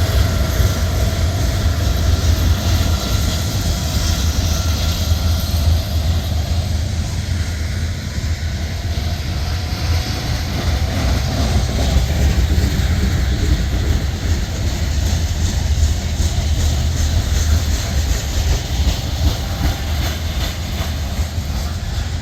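Freight train rolling past: a steady, loud low rumble of railcars on the track.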